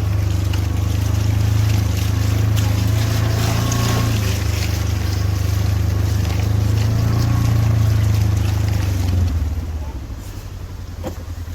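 The Ranger's engine running steadily while it drives, its level dropping about nine seconds in as it eases off.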